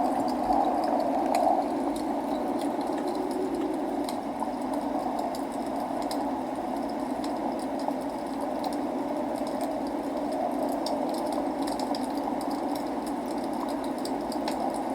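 Log fire crackling with frequent small, scattered pops over a steady rain noise.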